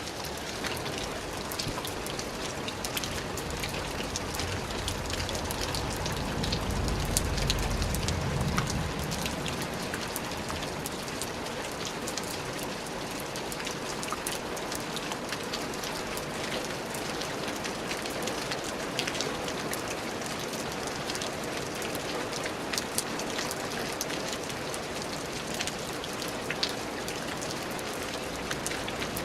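Steady rain falling on a surface, a dense patter of drops with frequent sharper individual drop ticks. A low rumble swells and fades between about six and nine seconds in.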